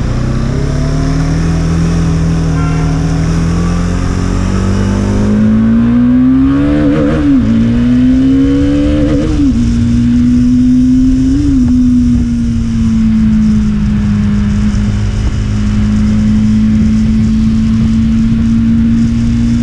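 Motorcycle engine pulling up through the gears, its pitch climbing and dropping back at three upshifts in the middle, then holding a steady cruising note.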